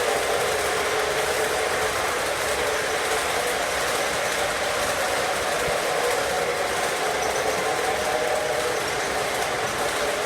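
Intermodal freight train rolling past, a steady, unbroken rumble and rattle of wheels and cars on the rails.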